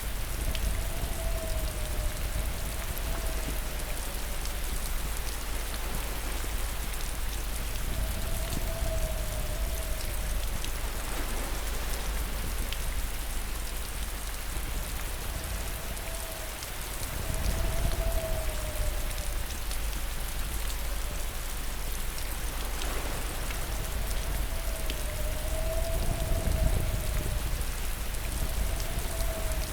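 Steady heavy rain falling, an even hiss with a low rumble beneath it. A faint wavering hum drifts in and out every few seconds.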